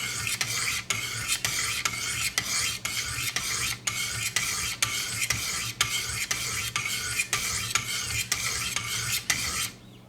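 Sharpening stones of a guided sharpener stroked quickly along a VG-10 knife blade, a steady scraping rasp made of many short strokes a few per second, alternating from side to side; it stops shortly before the end as the stage is finished.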